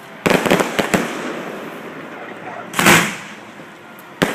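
Aerial fireworks exploding close by: a quick cluster of sharp bangs, then a single big boom about three seconds in and another bang at the end, each trailing off in a long echoing rumble.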